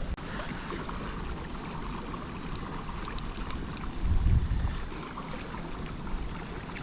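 Water lapping and trickling, with faint small ticks and a brief low rumble about four seconds in.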